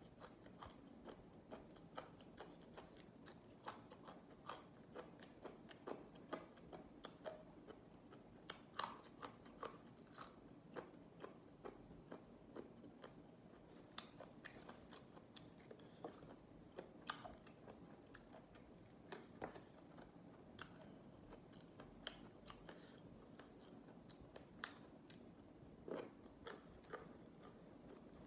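Close-up chewing and biting of crisp raw vegetables: irregular wet crunches, a few each second, with some louder bites standing out.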